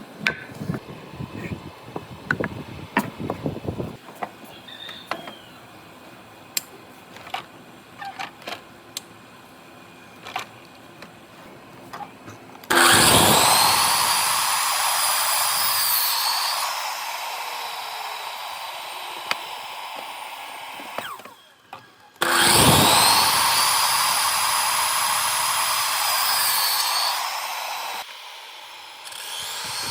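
Electric power tool working wood, run twice for several seconds each time with a steady high whine, starting and stopping abruptly. Before it, scattered light knocks and clicks of wood being handled.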